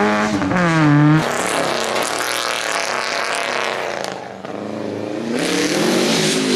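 Rally car engine running hard on a stage, its revs swinging up and down with the throttle. The sound changes abruptly about a second in to a noisier rush, dips briefly about four seconds in, then builds again with rising revs near the end.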